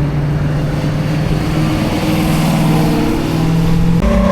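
Car engine running at low revs with a steady low note as a car pulls out, the pitch stepping up suddenly near the end.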